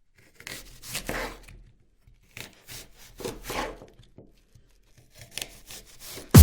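Three irregular bursts of rubbing and scraping noise.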